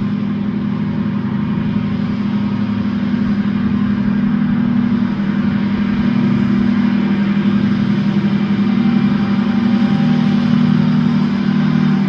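A vehicle engine running steadily, its pitch stepping down to a lower note near the end.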